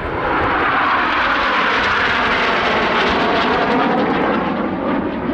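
A formation of BAE Hawk T1 jets passing close, their Rolls-Royce Adour turbofans a loud, dense jet rush. It swells right at the start, holds steady, and eases a little near the end.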